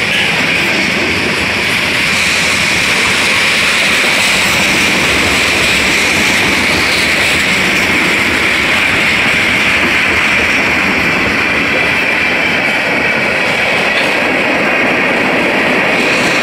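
Freight train of covered hoppers and tank cars rolling past, a loud, steady noise of steel wheels running on the rails.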